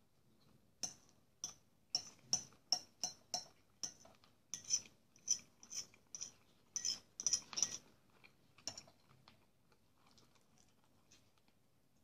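Close-up chewing of fried sausage and porridge: wet smacking clicks of the mouth, in a steady rhythm of about two a second, stopping about nine seconds in.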